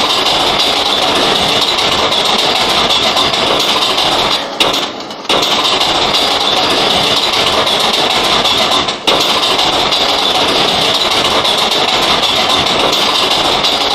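R143 subway train running, a steady loud rumble and hiss with a high-pitched whine band over it. The sound dips out briefly twice, about five and nine seconds in.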